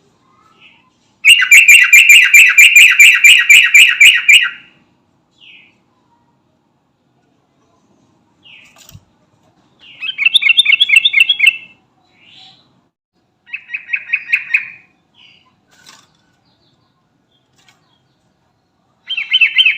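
Yellow-vented bulbul (trucukan) singing: a loud phrase of rapid repeated notes lasting about three seconds near the start, then shorter phrases about ten and thirteen seconds in and again at the end, with single short call notes between.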